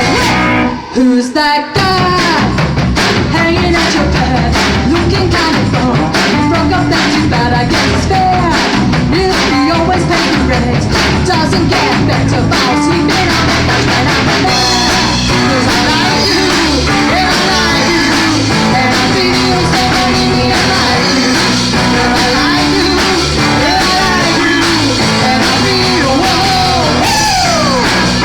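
Rock band playing with electric guitar, bass, drum kit and a singer. There is a brief break about a second in, then the band comes straight back in.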